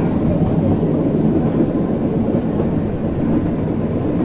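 Steady low rumble of the Kalka–Shimla narrow-gauge toy train running along the track, heard from inside a moving carriage.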